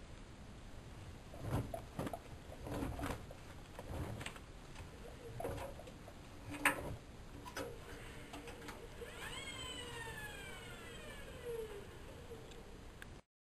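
Bauknecht WA1400 Dolphin washing machine: a few scattered clicks and knocks, then a faint steady tone and a whine that falls in pitch over about three seconds.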